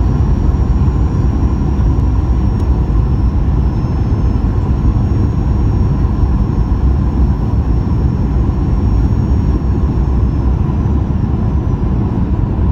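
Boeing 737 cabin noise during the landing approach: a steady rumble of engines and airflow, with a thin high whine held above it.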